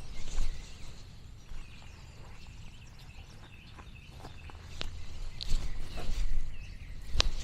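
Small birds chirping in short, repeated calls over a low outdoor rumble, with a few sharp clicks in the second half, the loudest near the end.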